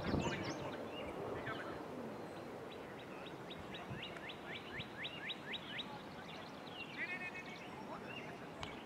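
A bird singing a quick run of about ten notes, each sliding down in pitch, followed by a few shorter chirps, over steady outdoor background noise.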